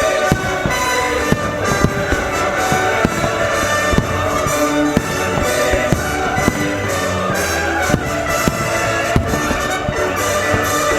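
Firework shells bursting in an irregular series of sharp bangs, one or two a second. Christmas music plays under them from the show's sound system.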